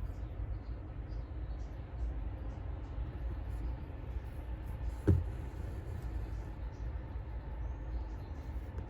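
Steady low rumble, with one short thump about five seconds in.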